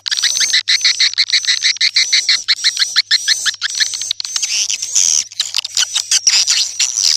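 Swiftlet calls used as a lure sound (suara panggil) to attract swiftlets to a nesting house: rapid trains of high twittering chirps that grow denser and brighter about four seconds in, over a faint steady hum.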